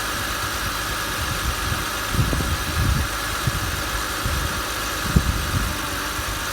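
BMW M52TUB20 2.0-litre straight-six engine idling steadily, with a few brief low bumps about two and five seconds in.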